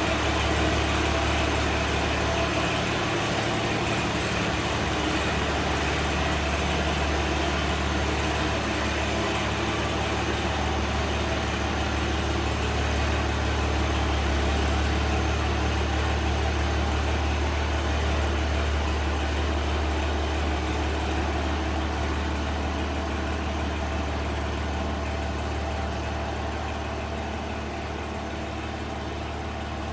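International Harvester 766 tractor engine running with a steady low note, growing somewhat quieter over the last few seconds.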